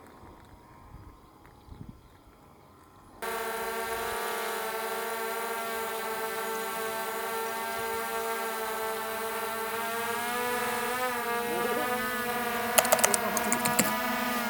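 Quadcopter drone's propellers starting abruptly about three seconds in, then running with a steady buzzing hum that rises slightly in pitch; a few sharp clicks near the end.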